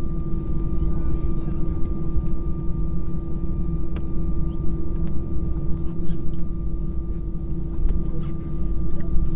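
Airliner cabin noise after landing: a steady low rumble of the engines and airframe, with a constant hum and a thinner high whine, and a few small clicks.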